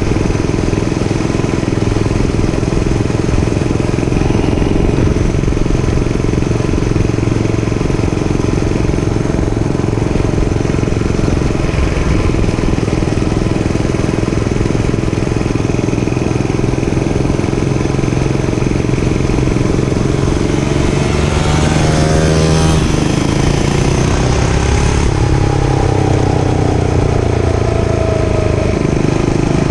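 Dirt bike engine running steadily while riding, with a rising and falling sweep in pitch about two-thirds of the way through.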